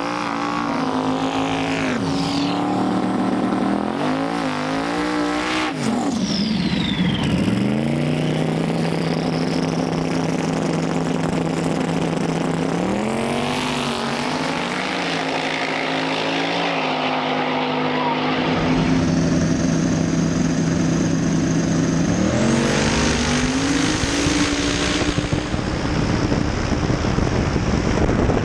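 Drag race car engines idling and being blipped, their pitch rising and falling several times and holding steady in between. A broad roar joins about two-thirds of the way through, with another rise in revs after it.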